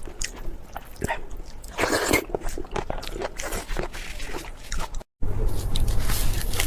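Close-miked biting and crunchy chewing of food, a run of crisp crackles. About five seconds in the sound cuts out for a split second, and after the cut a low hum sits under the crunching.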